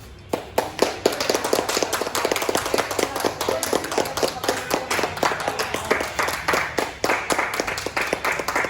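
A small group of people clapping, starting suddenly and going on fast and steady, as at a new car's handover.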